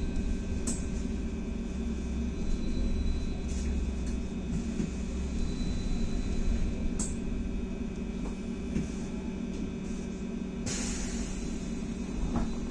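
Inside a Belkommunmash BKM-43300D trolleybus standing between a stop and a start: a steady hum and rumble with faint clicks, and a burst of hiss about eleven seconds in that lasts a couple of seconds.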